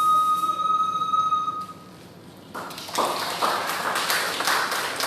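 An ocarina holds a single long, steady final note that ends about a second and a half in. After a brief pause, audience applause breaks out and continues.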